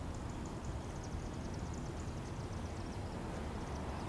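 Low, steady rumble of an approaching freight train's diesel locomotives still far off, with rapid high ticking chirps over it.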